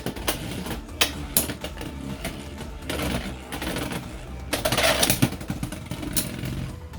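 Two Beyblade X spinning tops whirring in a stadium, with irregular sharp clacks as they collide, coming in clusters about a second in, around three seconds, and from about four and a half to just past five seconds.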